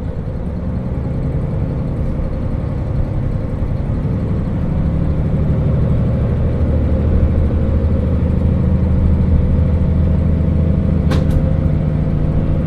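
JR Hokkaido KiHa 40 diesel railcar running along the line, heard from inside the car: the diesel engine's steady drone with wheel and rail noise, growing gradually louder. A short sharp high sound comes near the end.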